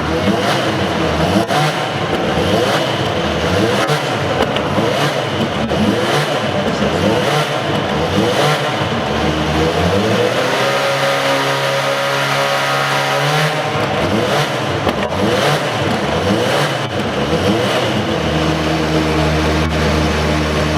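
Super GT Nissan GT-R race car engine being revved in quick repeated blips, rising and held at high revs for a couple of seconds about halfway through. Near the end it drops back to a steady idle.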